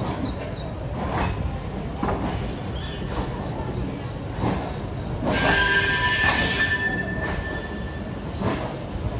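Hazara Express passenger train running on the rails, its wheels knocking over rail joints about once a second over a steady rumble. About halfway through it gets louder, with a high steady wheel squeal.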